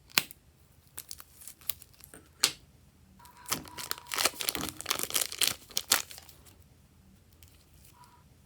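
Slime being handled: a few sharp pops and clicks, then a dense run of sticky crackling and popping for about two and a half seconds in the middle.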